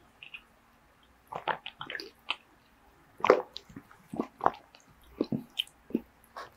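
Close-miked eating sounds: wet mouth smacks and chewing in short, irregular bursts, with light clicks.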